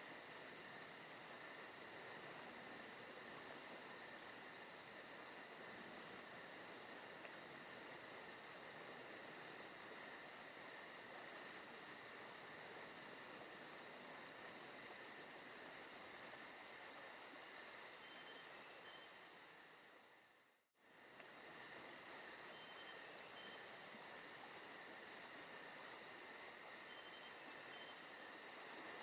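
Forest ambience soundtrack of crickets chirring steadily, with a fast even pulse high in pitch. About twenty seconds in, the whole sound fades out to near silence for a moment and then comes straight back.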